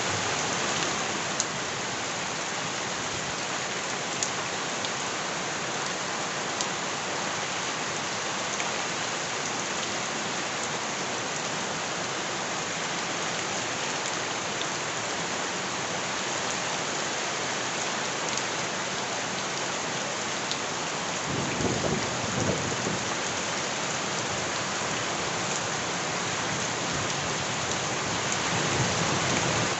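Steady rain falling on surfaces, with scattered sharp drop ticks. A low rumble swells briefly about two-thirds of the way through.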